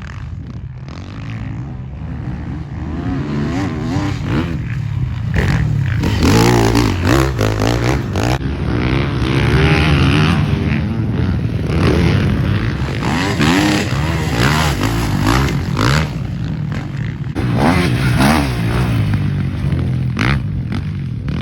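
Motocross dirt bike engines revving up and down repeatedly as the bikes ride the track, the pitch rising and falling over a constant low rumble.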